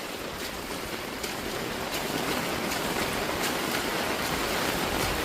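Steady rush of rainwater flowing along a roadside drain while rain falls, growing a little louder toward the end.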